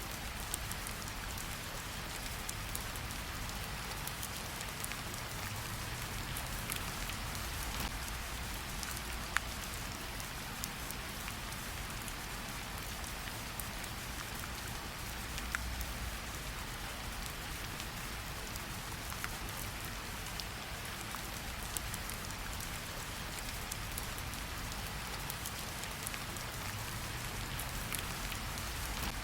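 Steady rain falling on tree leaves: an even patter with occasional louder single drops striking close by, over a low rumble.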